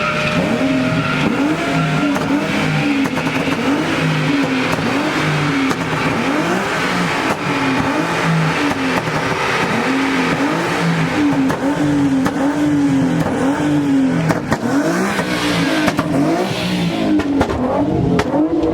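A car or truck engine being revved over and over, its pitch rising and falling about once a second, over a steady rush of noise.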